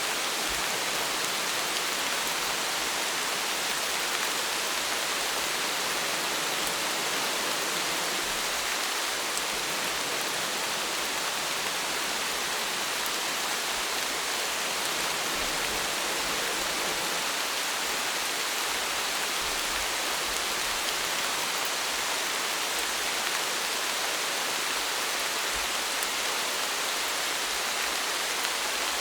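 Steady rain falling, an even hiss of drops without pause or change.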